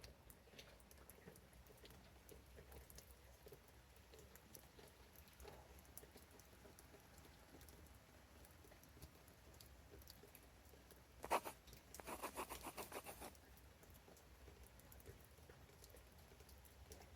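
Faint, scattered pattering of raindrops dripping. About eleven seconds in, a sharp click is followed by a quick run of rattling ticks lasting about two seconds, the loudest sound here.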